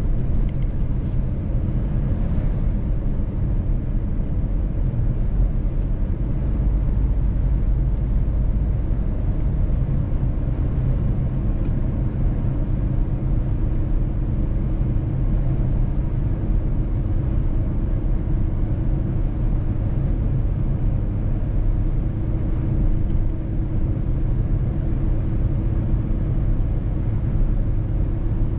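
Mercedes-Benz truck driving at a steady pace: a continuous low engine drone under road and tyre rumble, with no change in speed.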